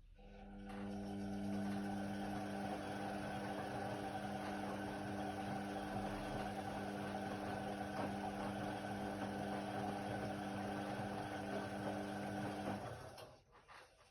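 Indesit WIDL 106 washer-dryer running with a steady hum for about twelve seconds, then cutting off near the end.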